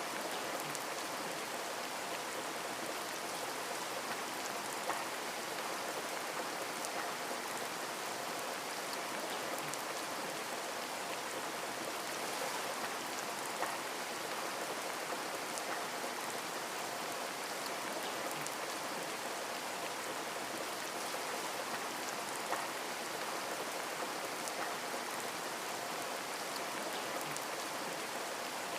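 Heavy rain: a steady, even hiss of downpour with the odd distinct drop tick now and then.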